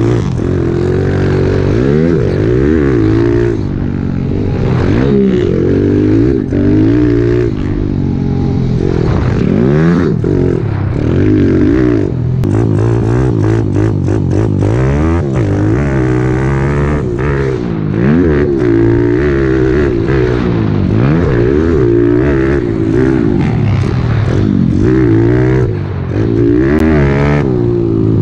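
Small single-cylinder pit bike engines being ridden hard around a motocross track, the pitch climbing and dropping every second or two as the throttle is opened and shut and the gears change.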